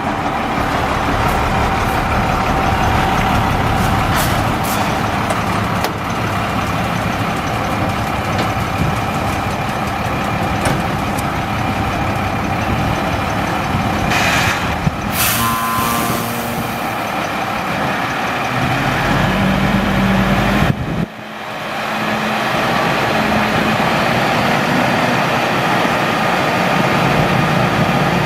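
International DT466E diesel engine in a dump truck running steadily, with a short hiss of air from the air brake system about halfway through.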